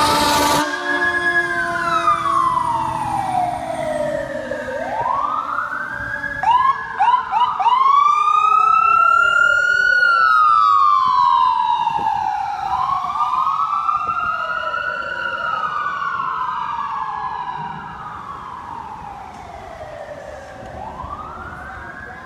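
Emergency-vehicle sirens wailing in slow rising and falling sweeps, two sirens at times overlapping. There is a brief quick yelp about seven seconds in and a short horn blast right at the start. The sirens fade over the last few seconds as the fire engine and ambulance move away.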